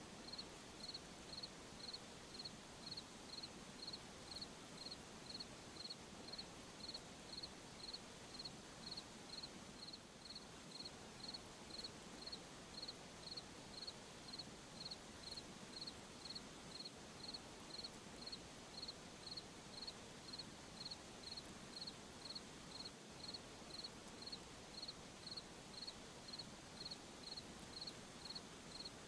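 A cricket chirping in an even rhythm, almost two high chirps a second, over a faint steady insect hum from a night chorus.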